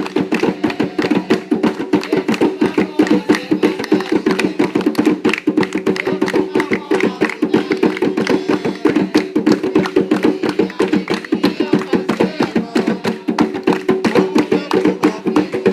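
Atabaque hand drums playing a fast, steady, driving rhythm for an Umbanda ponto, the strikes packed closely and evenly.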